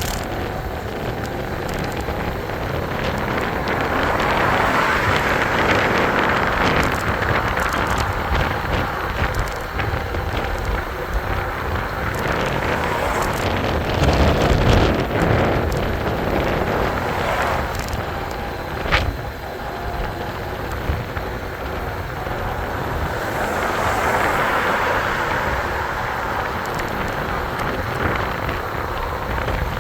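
Wind and road noise while riding an e-bike. It swells a few times and is loudest about halfway through.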